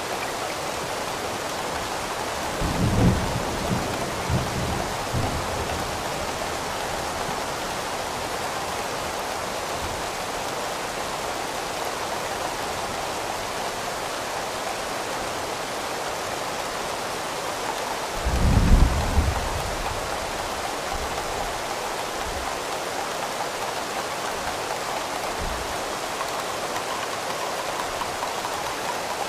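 Steady rain, with two short, low rumbles of distant thunder, one a few seconds in and one about two-thirds of the way through.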